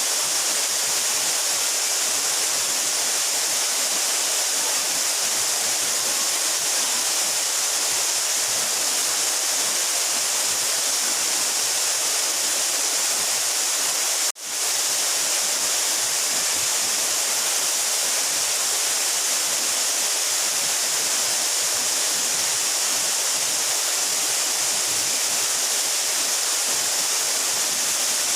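A 12-metre mountain waterfall rushing steadily. About halfway through, the sound cuts out for a moment and fades straight back in.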